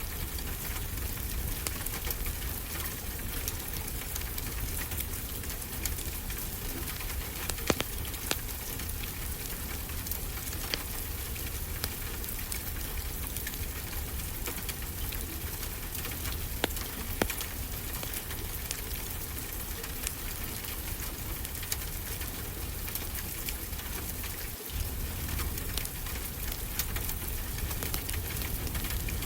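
Steady rain falling, with scattered sharp crackles of a wood fire; a few of the crackles are louder than the rest.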